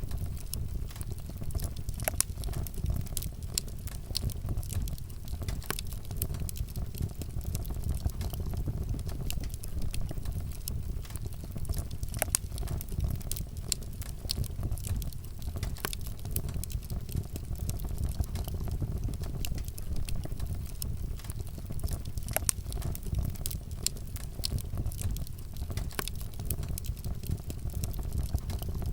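Wood fire burning with a steady low rumble and scattered sharp crackles and pops, a few louder snaps standing out.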